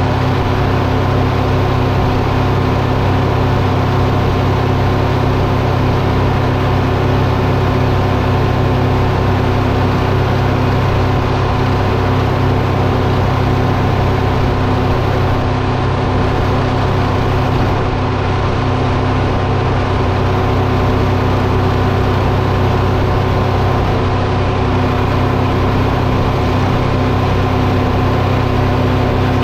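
A large engine running steadily at a constant speed with an even, unchanging drone, from the machinery working the sawmill.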